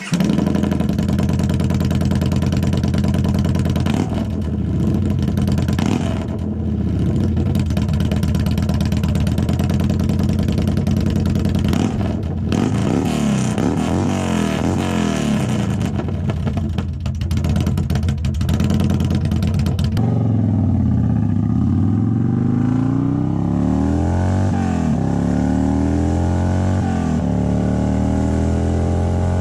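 Motorcycle engine through a Baron 4-inch exhaust with its baffle removed, running loud and being revved again and again, the pitch rising and falling. About twenty seconds in the sound changes to long rising and falling sweeps, like the bike accelerating and shifting. The owner finds that the unbaffled exhaust can sound like engine knock at certain revs.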